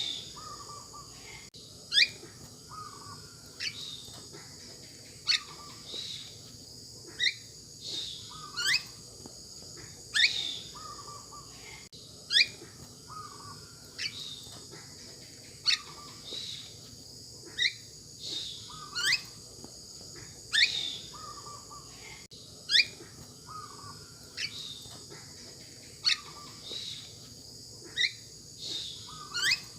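Birds calling over and over, short notes that sweep sharply upward, one every second or two, each with a lower note beside it. Behind them runs a steady high-pitched hum.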